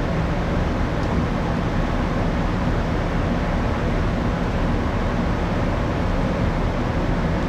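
Steady low drone and hiss of the moored second-generation Ogasawara Maru's onboard machinery and ventilation, with a faint hum; unchanging throughout.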